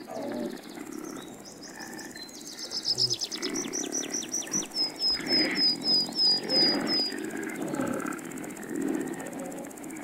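A songbird sings a long run of quick, high notes that grows louder, then turns into a string of clear down-slurred whistles, about three a second, and stops about seven seconds in. Under it come repeated low, rough animal calls.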